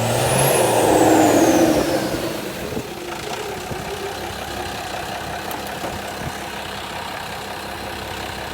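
Cummins diesel engine in a high-mileage truck revving briefly, with a whistle rising and falling as it spools up and down, then settling to a steady idle. The engine is worn, with about 500,000 miles and massive blow-by.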